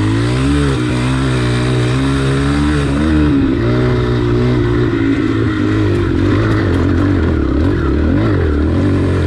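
Yamaha TTR pit bike's single-cylinder four-stroke engine working under load, its revs rising and falling as the bike climbs a steep, slippery dirt hill.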